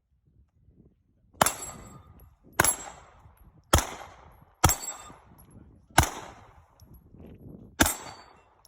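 Six gunshots, unevenly spaced about a second apart, each a sharp crack that trails off in echo.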